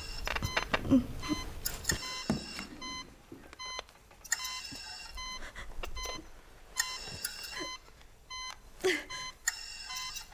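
Electronic beeping: groups of short, evenly repeated high tones in bursts of a second or two, separated by short gaps.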